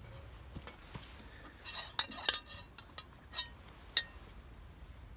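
Tableware clinking as a meal is served and eaten: a quick cluster of sharp clinks about two seconds in, then single clinks about three and a half and four seconds in.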